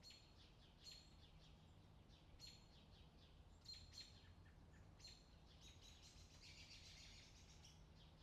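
Faint outdoor birdsong: birds giving repeated short, high chirps, with a quick trill about six to seven seconds in, over a low steady hum.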